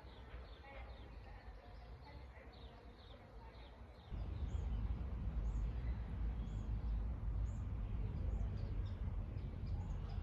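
Small birds chirping, many short high calls; in the second half one high call repeats about once a second. A steady low rumble comes in suddenly about four seconds in.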